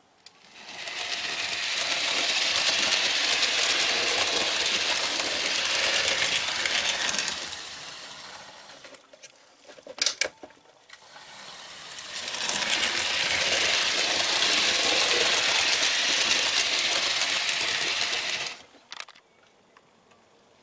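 OO gauge model locomotive and coach running at speed over handbuilt track: the wheel and motor noise swells up and fades away twice, each pass lasting about six seconds, with a few sharp clicks in between.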